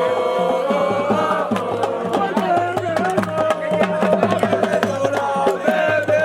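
Live drumming with many quick strokes under group singing or chanting, one voice line held and wavering.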